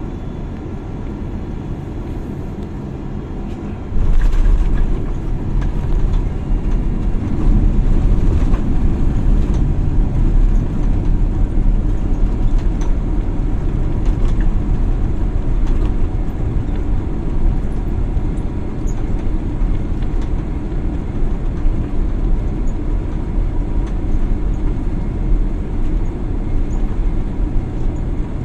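Airliner cabin noise: a steady engine hum, then about four seconds in a sudden louder, deep rumble with a few knocks as the wheels touch down on the runway, the rumble continuing as the plane rolls out.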